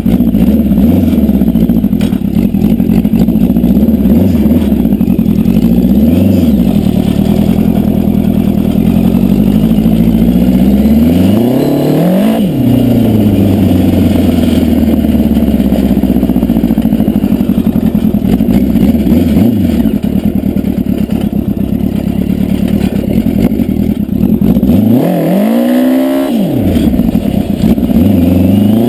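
Yamaha FJ1100 air-cooled inline-four motorcycle engine in a home-made dune buggy, running loudly with short throttle blips every few seconds and two bigger revs, about twelve seconds in and near the end.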